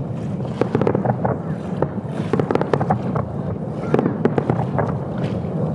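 Fireworks display: many small sharp pops and bangs in quick succession over a continuous rumble, with wind buffeting the microphone.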